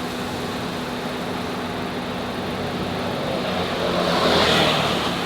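A car running: a steady engine hum with road and wind noise, and a swell of rushing noise about four seconds in.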